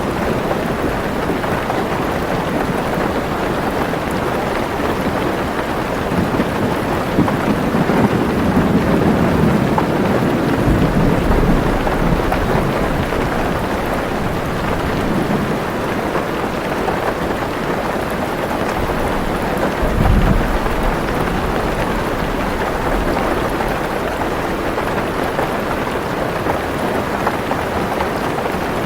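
Heavy rain falling steadily on a car roof, with thunder rumbling low: a long, swelling rumble about a quarter of the way in and a shorter, sharper peal about two-thirds through.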